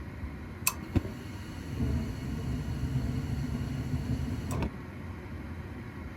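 Trane XL80 gas furnace misfiring: two sharp clicks, then a low rumble for about three seconds that cuts off with another click.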